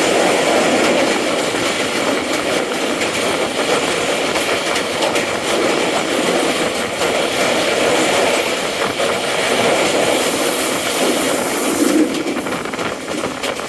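Moving passenger train: a steady rumble of wheels on the rails, with a brief high hiss near the end.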